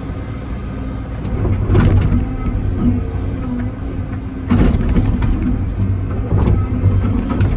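Excavator diesel engine running steadily under digging load, with louder scraping or clanking bursts about two seconds in and again about halfway through.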